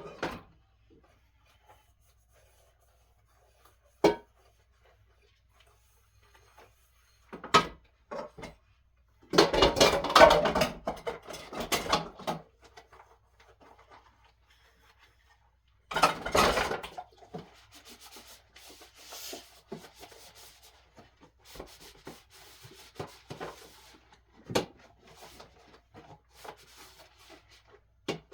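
Dishes being washed by hand: scrubbing and clattering of dishes in bursts, with single knocks and quiet gaps between.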